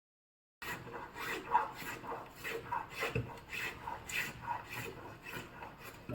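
Wood being scraped by hand in repeated back-and-forth strokes, like filing or sanding, about three strokes a second. The strokes start about half a second in, after dead silence.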